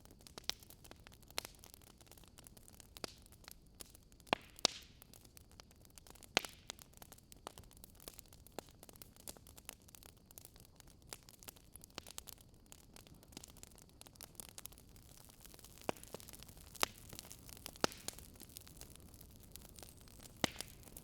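Campfire burning, wood crackling with irregular sharp pops over a faint steady hiss.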